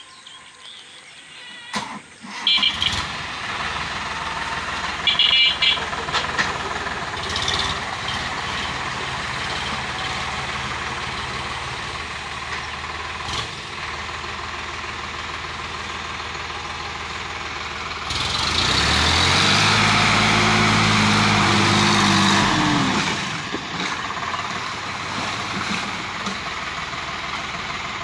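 Tractor diesel engine of a Sonalika DI 50 RX, running after coming in suddenly a couple of seconds in. It is revved hard for about five seconds, its pitch rising and then falling, before dropping back to steady running. Two short high beeps sound a few seconds in.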